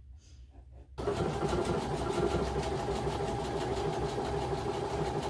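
Baby Lock Soprano sewing machine starting about a second in at the press of the foot pedal and running steadily, sewing a decorative stitch through fabric with a fast, even rhythm of needle strokes.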